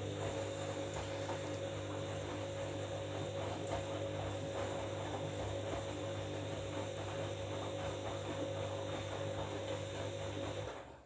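Washing machine drum turning during the wash with a load of bed linen: a steady motor hum over the tumbling of wet laundry, which stops near the end as the drum pauses.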